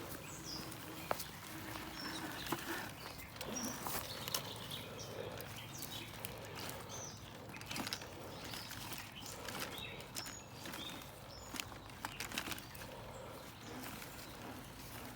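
Birds chirping in short calls, with scattered sharp clicks and crunches. A faint hum runs for the first few seconds and then stops.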